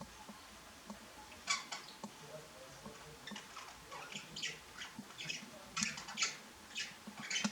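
Pet budgerigars chattering: short, scratchy chirps at irregular intervals, growing busier in the second half.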